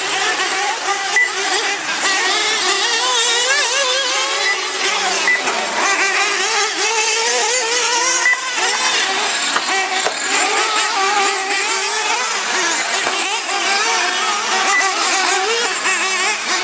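Several radio-controlled monster trucks and truggies racing together, their small motors revving up and down in overlapping, constantly wavering high whines.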